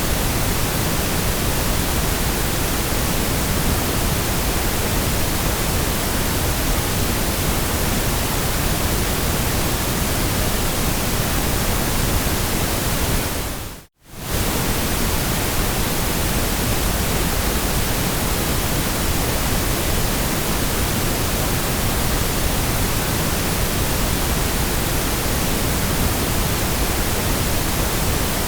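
Steady synthetic white noise, an even hiss spread across all pitches. About halfway through it fades out to near silence for a moment and comes straight back.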